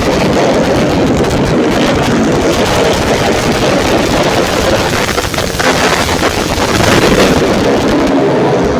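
Racing motorcycle engines running hard, heard through heavy wind buffeting on the microphone, which masks any clear engine pitch; the sound dips briefly a little past halfway.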